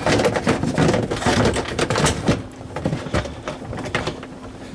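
Plastic dishwasher drain parts being handled and pushed back into place, a quick run of clicks, knocks and rustling that thins out about halfway through.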